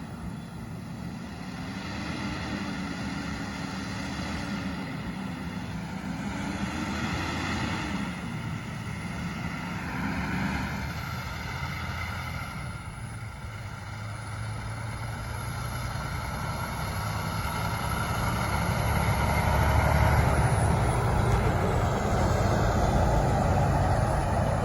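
International LT semi truck's diesel engine running, its pitch rising and falling in the first half, then the sound growing louder toward a peak near the end.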